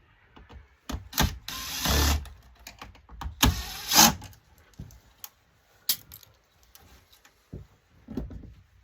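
Parts of a dismantled LCD monitor being handled: two longer stretches of scraping and rattling in the first half, then scattered clicks and knocks.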